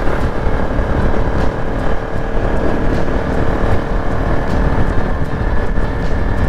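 Bajaj Pulsar NS200's single-cylinder engine running at a steady cruising speed through an aftermarket Akrapovic full-system exhaust, mixed with heavy wind rush on the microphone while riding.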